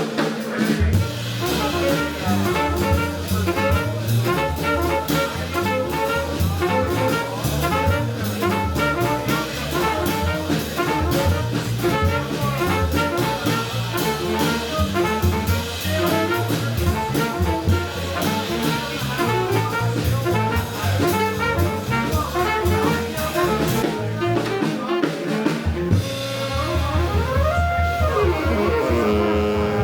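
Live jazz band playing, with horns over a drum kit and bass. About 26 seconds in the music changes, and a horn slides in pitch.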